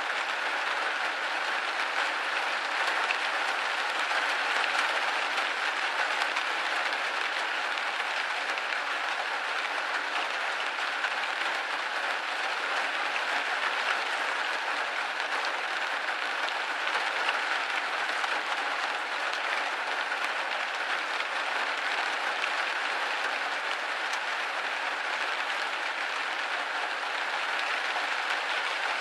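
Steady rain hitting a window pane, a dense, even patter of many drops on glass.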